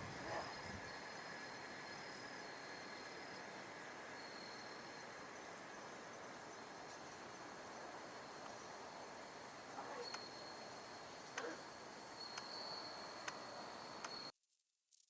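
Faint chorus of insects: a steady high trill with shorter chirps coming and going over a light hiss, and a few faint clicks. It cuts off abruptly about a second before the end.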